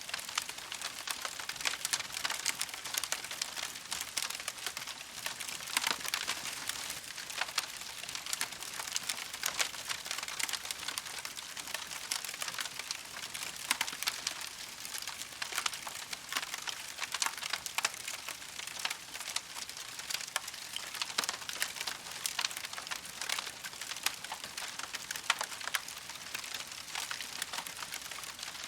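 Campfire crackling: a dense, continuous stream of small pops and snaps, many each second, with no single standout loud crack.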